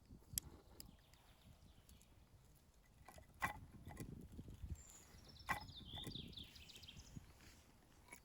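A few faint, sharp clicks and knocks over a low rumble, with a short run of high bird chirps about five seconds in.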